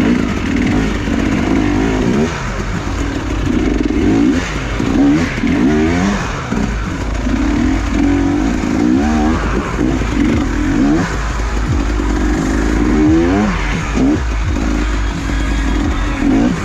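Enduro motorcycle engines revving, their pitch rising and falling again and again.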